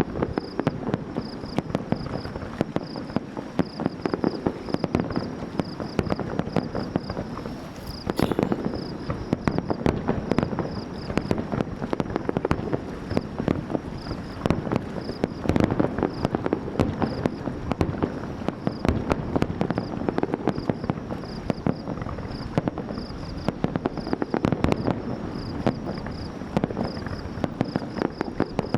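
Fireworks going off in a dense, continuous barrage: many shell bursts and crackles overlapping with no pause.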